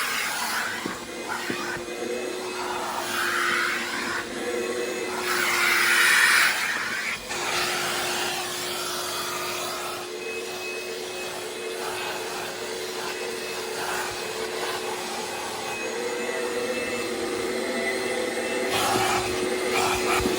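Vacuum cleaner running with a steady motor whine while its nozzle sucks over the car's interior, the rushing hiss shifting and louder in the first seven seconds, briefly dropping, then steadier.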